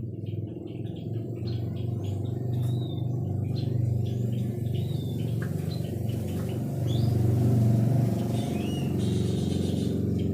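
White-rumped shama singing a run of short, varied chirps and whistles over a loud, steady low drone.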